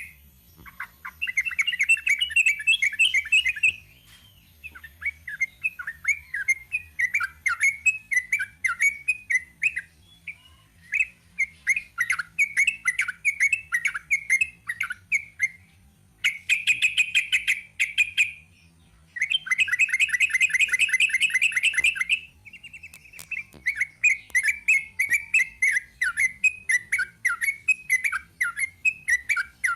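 Yellow-vented bulbul (trucukan) singing long runs of rapid, chattering notes, in several bursts of a few seconds each with short pauses between them.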